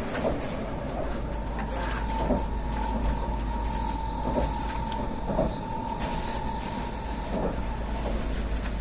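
Tokaido Shinkansen train running, heard inside the passenger cabin: a steady low rumble with a few short knocks a second or two apart, and a steady high whine from about two seconds in until about six seconds.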